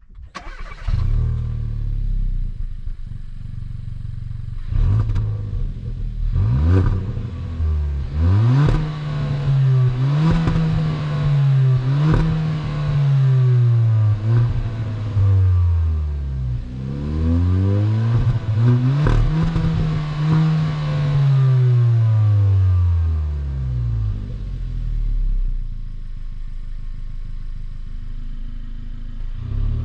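2022 Kia Cerato GT's 1.6-litre turbocharged four-cylinder engine, which starts with a loud flare and settles to idle. It is blipped twice, then revved up, held and let fall several times, rising and dropping in pitch, before returning to a steady idle near the end.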